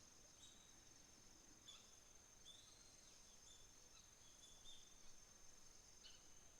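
Faint autumn morning ambience: a steady, high-pitched insect trill runs throughout, while small birds give short chirps every second or so.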